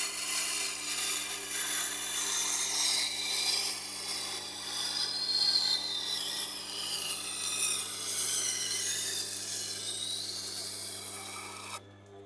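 Steel knife edge grinding against a Tormek's turning water-cooled grindstone: a continuous wet rasping over the machine's steady motor hum. The grinding stops abruptly near the end as the blade is lifted off the stone.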